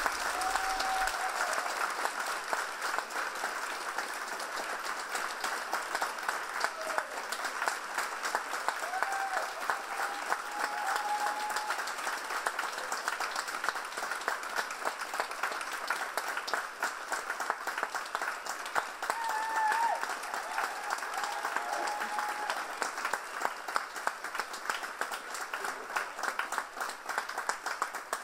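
Theatre audience applauding steadily for about half a minute, with a few short cheers called out over the clapping.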